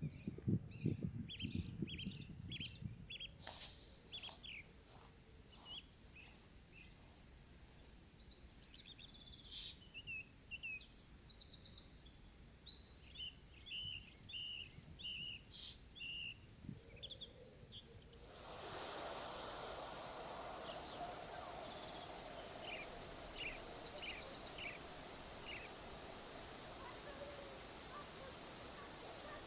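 Small forest birds chirping and calling in short repeated notes. About two-thirds of the way through, a steady rushing noise comes in under the birdsong and continues.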